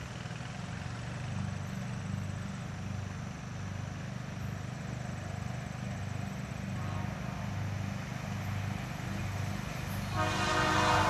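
Diesel freight locomotive engine rumbling steadily as it approaches, growing gradually louder. About ten seconds in, its air horn starts to blow loudly.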